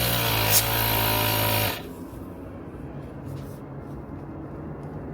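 Compressed air blowing hard from an air compressor's nozzle, a loud hiss with a steady hum under it, cutting off abruptly about two seconds in. The air is being forced into a golf grip to expand it so it slides down the shaft.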